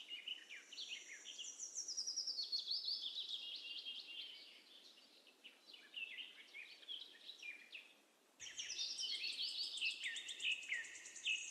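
Birds chirping: many short, high calls and quick pitch glides overlapping in a dense chorus. It fades to almost nothing midway, then comes back suddenly about eight seconds in.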